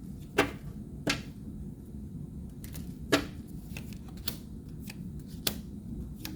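Tarot cards being handled and laid down: six or seven sharp, separate card snaps and taps at an irregular pace, the loudest three in the first few seconds.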